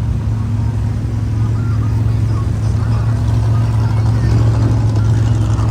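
Small engine of a home-rigged riding cart running steadily at an even speed, loud and close.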